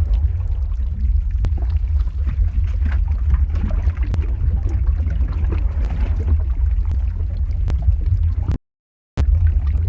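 Lava-flow ambience sound effect: a steady deep rumble with scattered sharp crackles and pops. It cuts out completely for about half a second near the end, then resumes.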